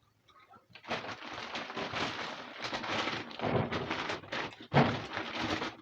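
Plastic grocery bags rustling and crinkling as produce is handled and unpacked, with a soft knock near the end. It starts about a second in.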